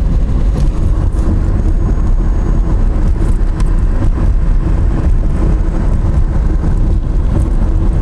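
Steady low rumble of vehicles on the move: engine and road noise while driving, unchanging throughout.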